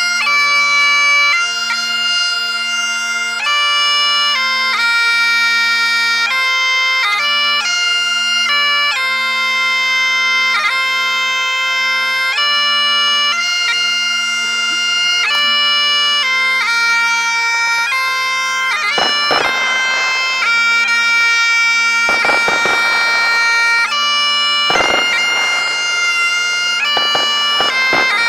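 Bagpipes playing a tune over their steady drone. From about two-thirds of the way in, several bursts of crackling noise break in over the piping.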